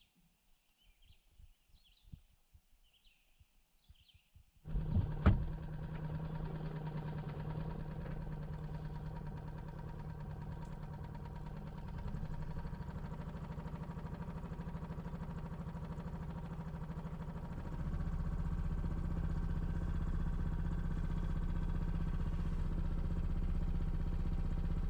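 Faint bird chirps, then an engine starts abruptly about five seconds in and runs steadily, getting a little louder about eighteen seconds in.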